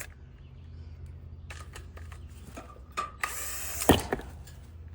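Hand tools and metal parts being handled during repair work: scattered clicks and rattles, a short scraping noise after about three seconds and a sharp knock near the end, over a steady low hum.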